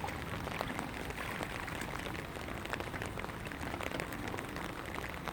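Steady rain falling, with many small ticks of drops hitting surfaces.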